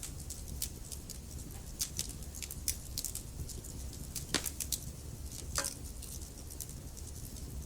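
Wood fire burning in a fireplace: a steady low rumble of flames with irregular sharp crackles and pops from the burning logs, the strongest a little past the middle.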